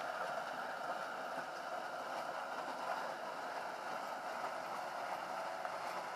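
Caterpillar 120M motor grader running and working, a steady mechanical noise that does not change.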